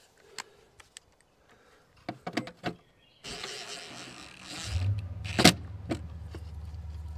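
A few clicks and knocks, then a short hiss, then a machine starts up about four and a half seconds in and runs with a steady low hum, with one sharp click shortly after it starts.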